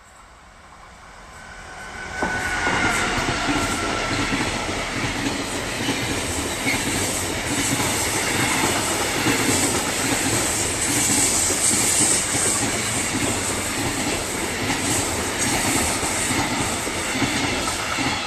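A train passing close by on the rails. Its noise swells, then turns abruptly loud about two seconds in, with wheels clattering over the rails, holds steady for about fifteen seconds, and begins to die away near the end.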